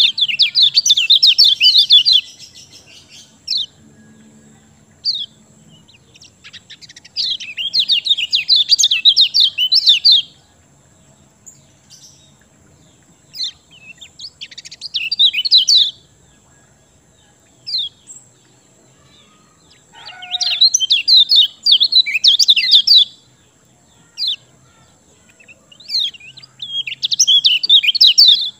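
Kecial kuning (white-eye) singing: repeated two-to-three-second bursts of fast, high twittering song about every six seconds, with single short chirps in between.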